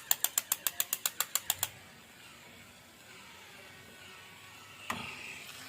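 A rapid run of even clicks, about eight a second, that stops under two seconds in. A faint steady hum follows, with a single click near the end.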